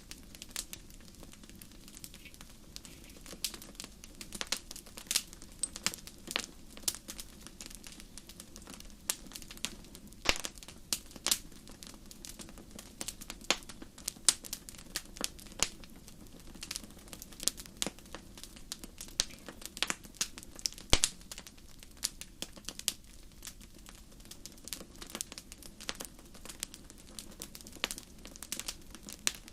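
A wood fire in a fireplace crackling, with sharp, irregular pops and snaps over a soft, steady rumble of flame.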